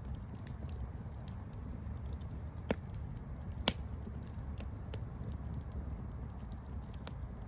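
Campfire burning with a steady low rumble and scattered small crackles, and two louder sharp pops about a second apart near the middle.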